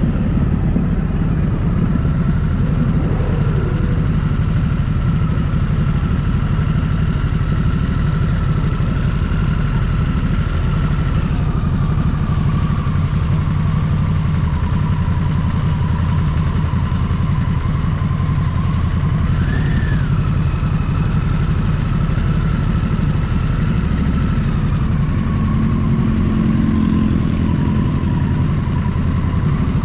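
Motorcycle engine running steadily while being ridden, with a thin whine above it that drops a little in pitch about eleven seconds in.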